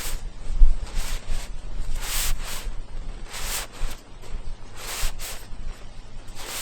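Camping gear being handled and packed, a series of short rustling swishes at uneven intervals, over a low steady rumble.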